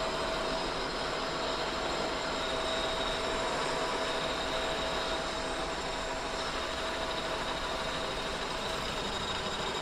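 Kearney & Trecker 2HL horizontal milling machine running steadily at slow spindle speed, its cutter taking a light finishing pass across a cast iron straight edge.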